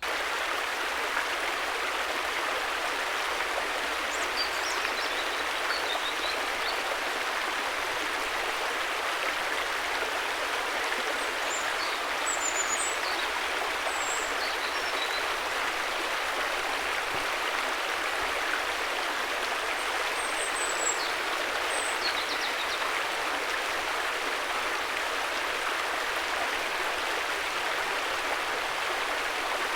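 River water flowing and rushing steadily, with a few faint, short high chirps now and then.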